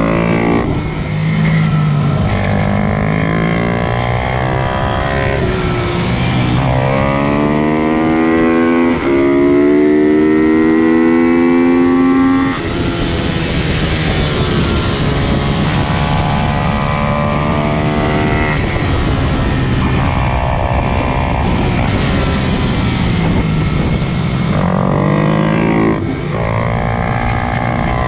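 Pit bike engines racing, revving hard and climbing in pitch again and again with drops between for gear changes, with several bikes heard over one another.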